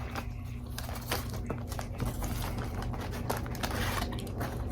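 Close-miked chewing and mouth sounds of someone eating: irregular wet clicks and small crunches, over a steady low hum.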